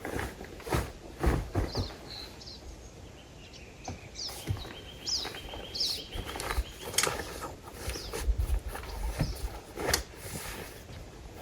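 Small birds chirping in short, high, downward chirps scattered through, over open-air ambience with scattered sharp clicks and knocks and low rumbles.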